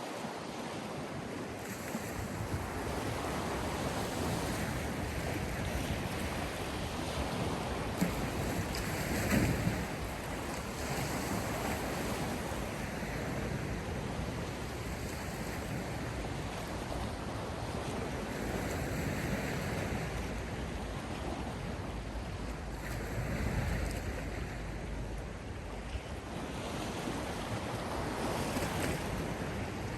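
Sea surf: waves breaking and washing in, a steady rush that swells every several seconds.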